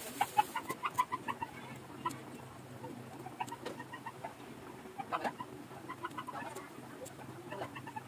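Birds calling in the background: short, repeated notes coming several times a second.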